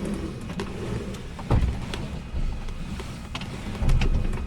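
Cessna 172S flight controls being worked through their travel from the cockpit: rumbling and clicking from the yoke and control linkage, with two louder thuds, one about a second and a half in and one near the end.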